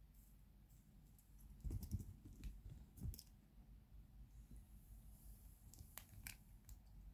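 Faint scratching in a cat's fur, claws rasping at the neck and head, with a few dull thumps about two and three seconds in and several sharp clicks near the end.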